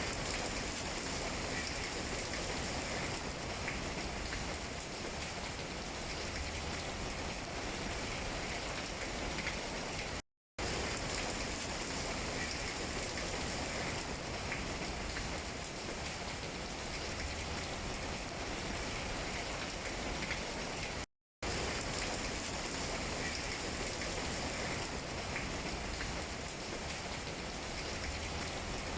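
Steady rain falling on tree leaves: an even hiss with faint scattered drop taps. The sound cuts out completely for a fraction of a second twice, about a third and two-thirds of the way through.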